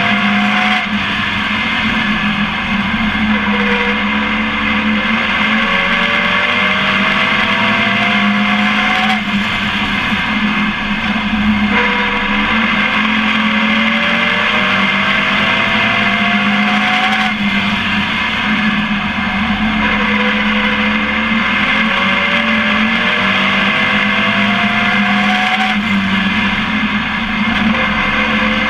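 Race truck's engine heard from onboard at racing speed, its pitch climbing for several seconds down each straight, then falling back as the driver lifts for the turn, over and over, with steady wind and road noise.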